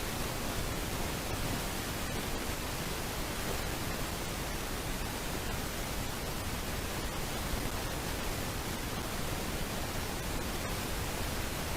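Steady, even hiss of noise picked up by a nest camera's microphone, with a few faint clicks.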